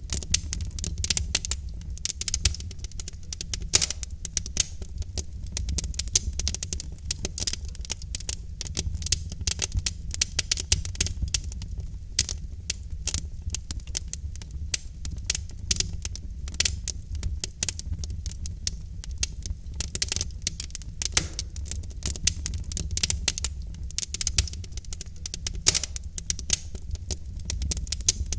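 Wood fire in a fireplace crackling, with many irregular sharp pops and snaps of burning logs over a steady low rumble of the flames.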